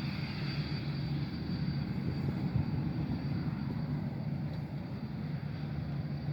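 Jet airliner engines running, a steady low rumble with a thin, steady high whine.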